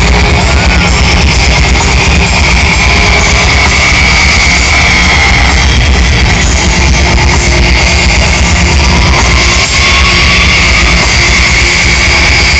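Loud rock music with electric guitar and drums, played live and recorded through a phone's microphone.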